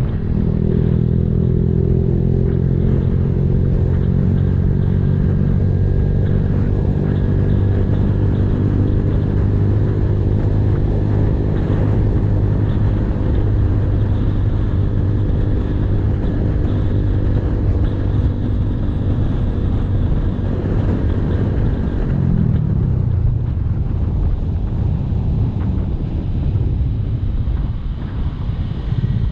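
Honda Blade single-cylinder four-stroke underbone motorcycle with an aftermarket racing exhaust, heard while riding: a steady engine note at cruising speed that drops in pitch a little over twenty seconds in as the bike slows, then picks up again at the very end.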